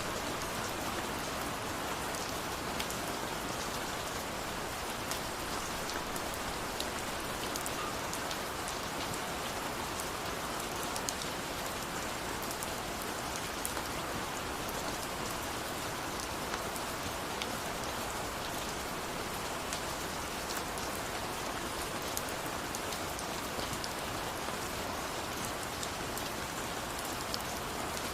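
Steady rain falling, an even hiss with scattered drop ticks, and no thunder.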